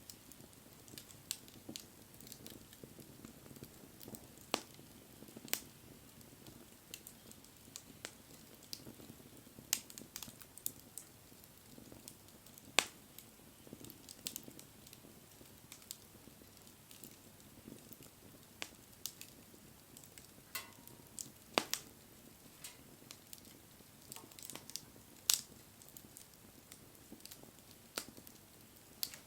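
Wood bonfire burning, crackling with irregular sharp pops over a low steady rush of flame; a few pops stand out louder than the rest.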